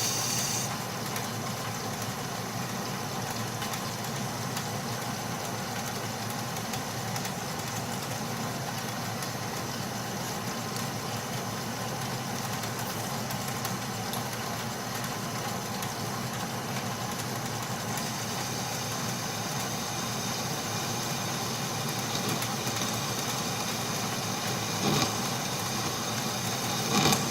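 Atlas metal lathe running steadily while a boring tool cuts mild steel, a continuous machine drone with cutting noise that grows harsher about two-thirds of the way in. Two brief louder knocks near the end.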